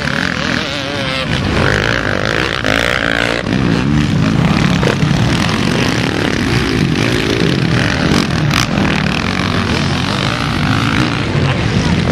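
Several motocross motorcycles racing, their engines revving up and down and overlapping one another.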